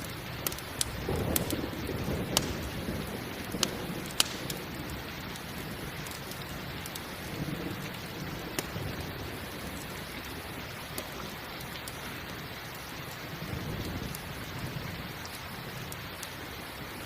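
Steady rain falling, with a crackling campfire giving sharp scattered pops, most of them in the first few seconds. Low rumbles of thunder swell up now and then.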